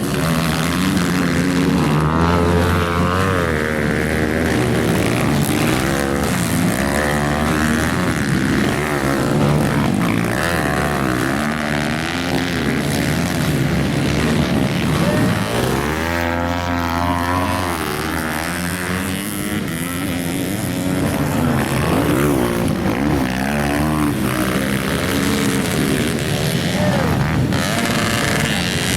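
Several motocross bikes racing, their engines revving hard and dropping back over and over as they shift and brake, with overlapping rising and falling engine notes.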